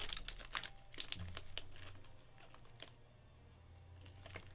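Plastic trading-card packaging crinkling and tearing as it is handled and opened by hand, a dense run of crackles for about two seconds that thins out and goes quiet.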